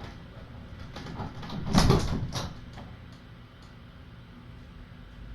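A door being shut: a short cluster of knocks and rattles about two seconds in, followed by a few faint clicks.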